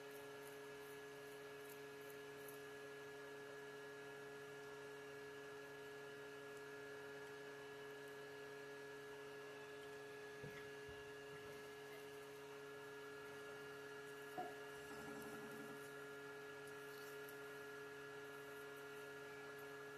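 Greenworks lawnmower battery charger running, a faint steady fan-like hum. A couple of faint soft knocks come about halfway through.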